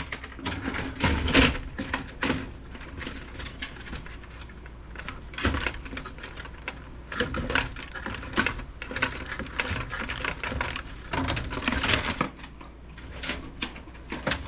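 Irregular clicking and clattering of metal and plastic computer parts being handled and pried apart during the dismantling of a desktop PC, with a few louder knocks about a second and a half in, near the middle and near the end.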